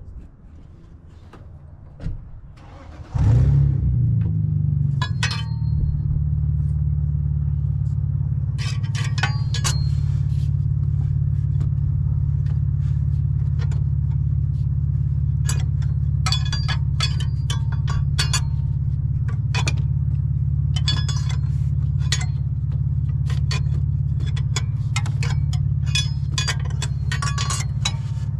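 A 2002 GMC Savana 1500 van's engine cranks briefly, catches about three seconds in, and settles into a steady idle. Repeated metallic clinks and jingles sound over the idle.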